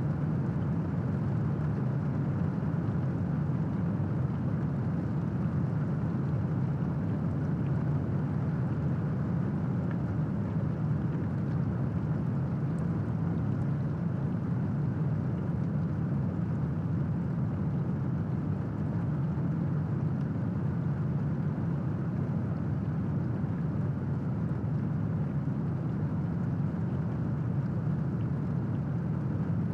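Steady rain, an even low-pitched rushing noise that does not change, with no thunderclap.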